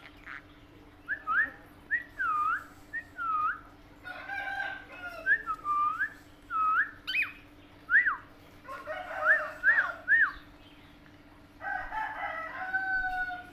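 A pet parrot whistling a string of short notes that swoop up and down, broken by three stretches of raspy, buzzy calls about four, nine and twelve seconds in.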